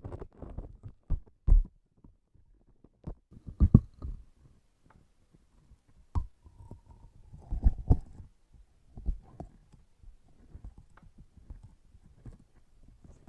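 Transparent sticky objects pressed and handled right at the microphone: an irregular run of soft, deep thumps and sticky clicks, loudest about 1.5, 4 and 8 seconds in.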